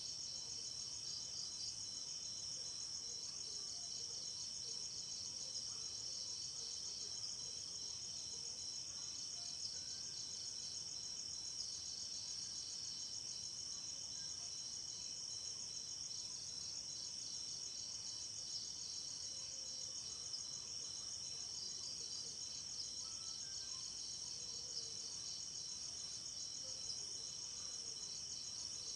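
Night insects, crickets among them, chirring continuously in a dense, high-pitched chorus of rapid pulses, with a couple of thinner steady trills beneath it.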